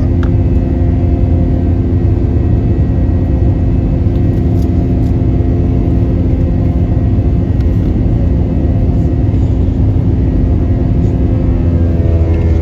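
Jet engines of a Spirit Airlines Airbus A320-family airliner at takeoff power, heard from inside the cabin as a loud, steady rumble with a steady hum over it.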